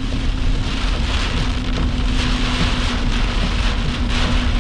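Heavy rain pelting a vehicle, a dense hiss that swells and eases in gusts, over a low rumble and a steady low hum from inside the vehicle.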